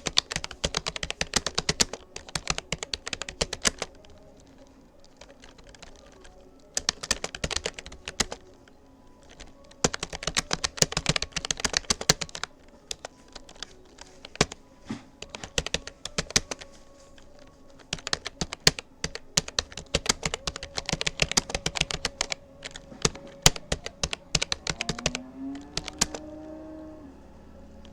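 Fingers typing on a Rapoo computer keyboard at a steady practice pace: quick runs of key clicks broken by short pauses of a second or two.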